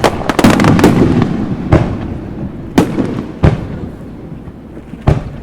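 Aerial fireworks shells bursting: a string of sharp bangs at about one a second, each followed by a rolling, fading echo.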